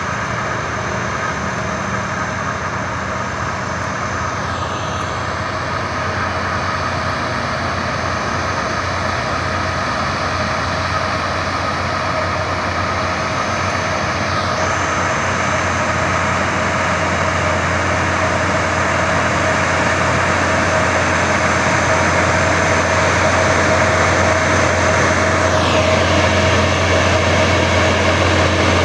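Heavy diesel engine of a railway ballast-levelling machine running steadily, its low hum growing gradually louder.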